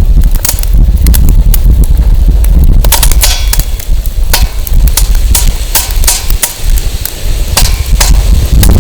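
Firewood burning in a fire pit, crackling and popping with many sharp irregular snaps that come thicker a few seconds in. Wind rumbles steadily on the microphone underneath.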